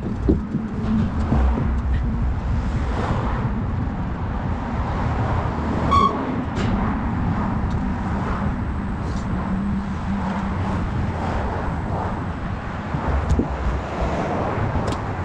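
Steady rumble of wind and road noise while riding a road bicycle, with a short ringing tone about six seconds in.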